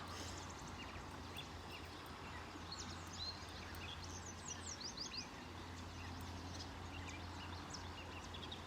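Several songbirds chirping and calling, with a quick run of high falling notes about halfway through, over the steady rush of a creek and a low, even hum.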